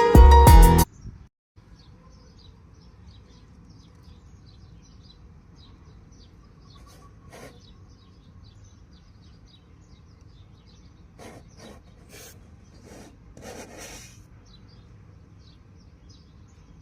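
Music stops about a second in. What follows is faint outdoor ambience with many small, high bird chirps, broken by a few brief rubbing or rustling noises near the middle and later on.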